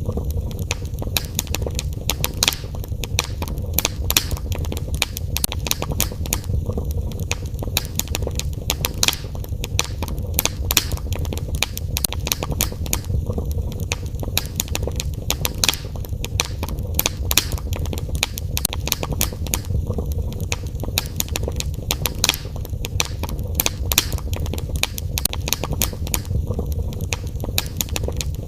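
Fire burning in a fireplace, crackling with frequent sharp pops over a steady low rumble.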